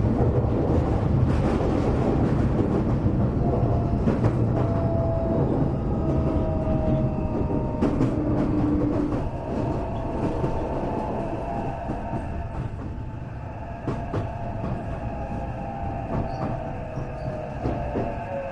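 Tokyo Metro 8000 series electric train heard from inside a car, running and easing off in loudness as it slows for a station. Its wheels click over rail joints, and a whine falls in pitch near the end.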